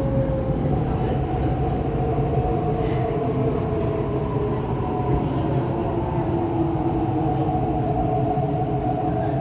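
MTR East Rail Line R-Train electric multiple unit heard from inside the car while running: a steady rumble with a few whining tones that slowly shift in pitch.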